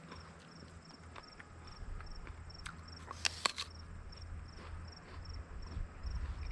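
A cricket chirping steadily, about two to three high chirps a second, over a low rumble. A quick cluster of sharp clicks sounds about halfway through.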